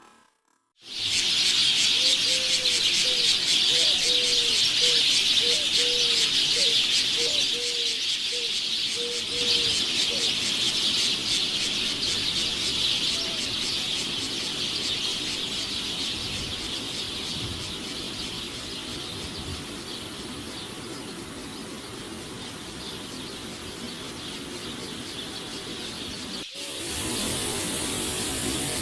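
Steady rushing hiss of a waterfall's falling water. Over it, a bird calls a run of about ten short, low, repeated notes during the first ten seconds.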